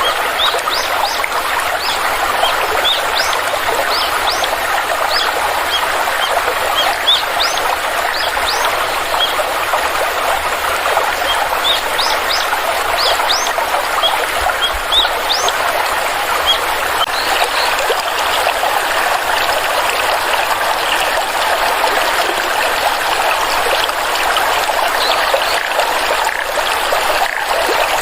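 Flowing stream trickling steadily, with a bird giving many short, quickly rising chirps over it through roughly the first half, fewer after that.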